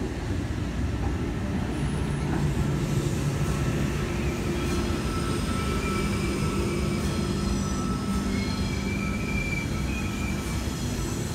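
A V-set double-deck electric intercity train passing through the station: a steady rumble of wheels on the rails, with thin high squeals from the wheels joining in from about halfway.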